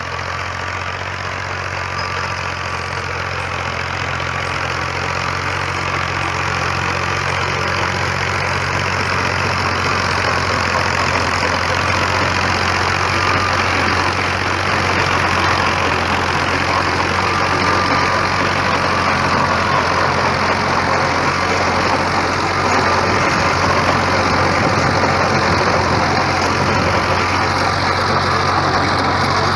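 New Holland Ghazi 65 hp tractor's diesel engine running steadily, a constant low drone with broad mechanical noise over it, slowly growing a little louder.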